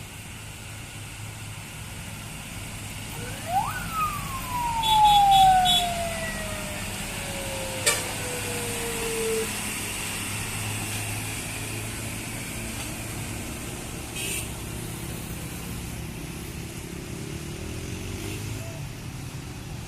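Mitsubishi L300 with a 'kuntilanak' whistle exhaust letting out one shrill ghost-like wail: the pitch shoots up sharply, then falls slowly over about six seconds as the revs drop. Steady road traffic hums underneath, with a few sharp clicks.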